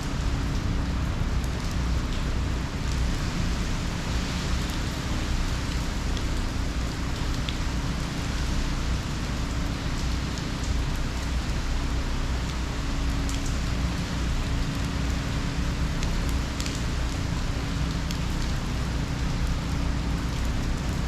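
Heavy hurricane rain falling steadily: a constant hiss of downpour with a low rumble underneath and scattered drop ticks.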